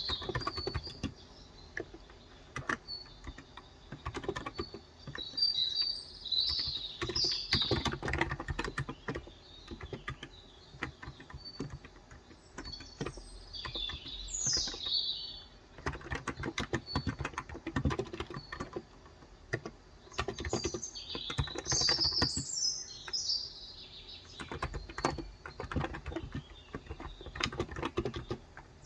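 Typing on a Cox Endeavour electro-capacitive keyboard with 35 g switches, in runs of keystrokes broken by short pauses. Small birds chirp in the background several times.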